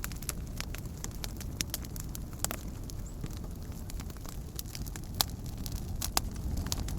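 Wood campfire crackling, with irregular sharp pops scattered through it over a steady low rumble; two louder pops come about five and six seconds in.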